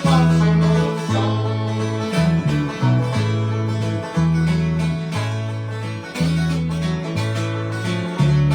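Bluegrass instrumental break: banjo and acoustic guitar picking over a bass line that changes note about once a second.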